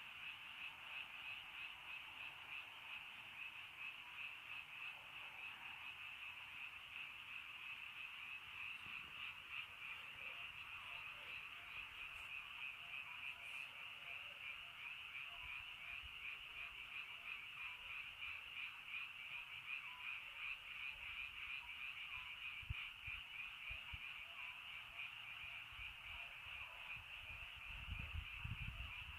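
A chorus of many frogs calling together in a dense, fast-pulsing trill that never lets up. A few dull low thumps come near the end.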